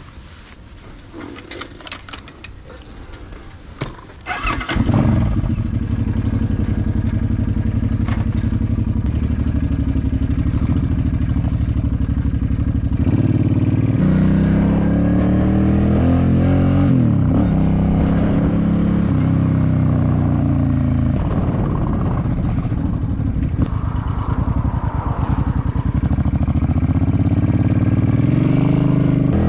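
Suzuki C50 cruiser's V-twin engine: a few light clicks, then the engine starts about four seconds in and idles steadily. From about thirteen seconds on its revs rise and drop again and again as the motorcycle is ridden.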